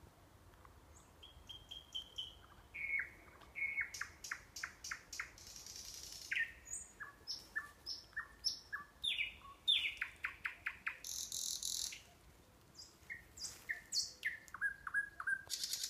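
Nightingale singing a run of varied phrases of rapid repeated notes, trills and whistles, with a short pause about twelve seconds in.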